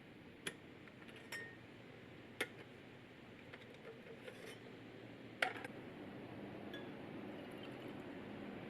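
Metal camp coffee gear being handled: a few sharp clinks and taps spaced a second or more apart, one ringing briefly, the loudest about five seconds in, over a low steady background.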